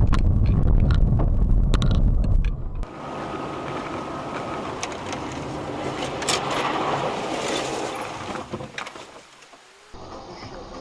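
Road and engine noise inside a moving car: a loud steady low rumble with a few sharp knocks. About three seconds in it cuts off abruptly to a quieter, even traffic hiss.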